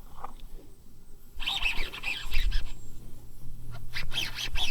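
Birds calling: a cluster of short chirps about one and a half seconds in, then more short sharp calls near the end.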